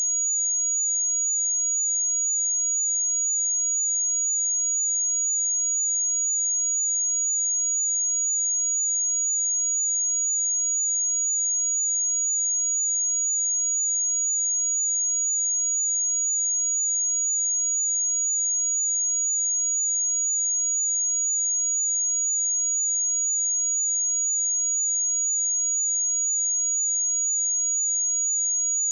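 A steady pure sine-wave test tone at 6751 Hz, a single high-pitched whistle-like pitch held at constant loudness without change.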